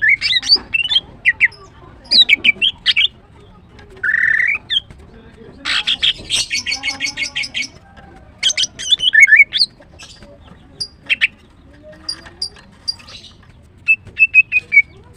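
Female greater green leafbird calling in short bursts of sharp, high chirps and clicking notes. About six seconds in comes a fast rattling trill that lasts a couple of seconds, and near the end a brief steady whistled note.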